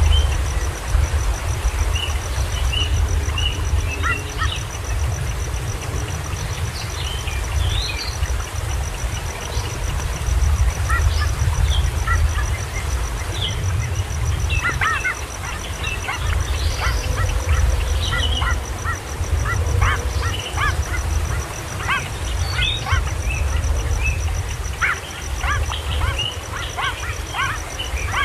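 Short, squeaky calls of young kingfishers, coming more and more often near the end, over a steady low rumble.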